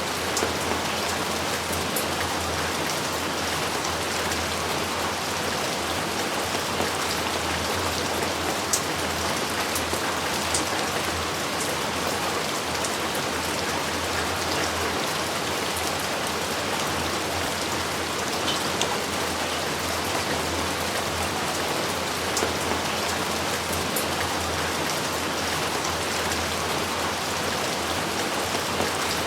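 Steady heavy rain falling, an even hiss with scattered sharp drop hits and no thunder.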